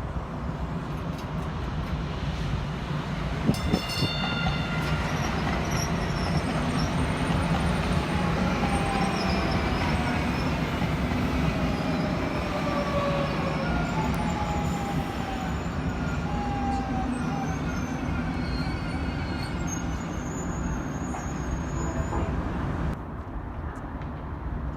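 A train passing with a steady rumble. About three and a half seconds in there is a brief tone with several pitches, and through the middle high whining tones slowly fall in pitch. The sound drops off shortly before the end.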